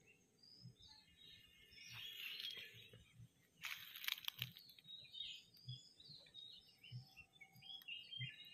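Faint outdoor ambience of small birds chirping, with a brief crunching rustle about three and a half seconds in and soft low thumps every second or so.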